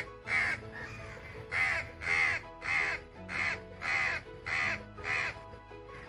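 A bird calling over and over with harsh, caw-like calls, about ten in a row roughly half a second apart. Background music with held notes plays underneath.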